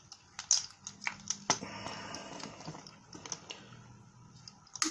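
Plastic cap of a lemon juice bottle being worked open by hand: a scatter of sharp plastic clicks and snaps as the stiff cap resists.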